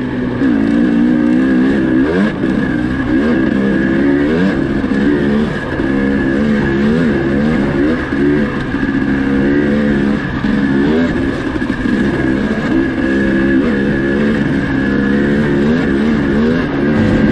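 Dirt bike engine running under load while ridden off-road, its pitch rising and falling again and again as the throttle is worked through the terrain.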